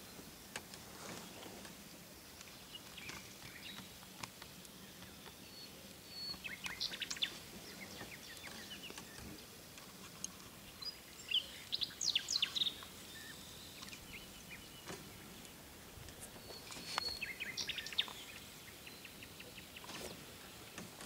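Small birds giving several short bursts of high chirps a few seconds apart, over faint, steady background noise.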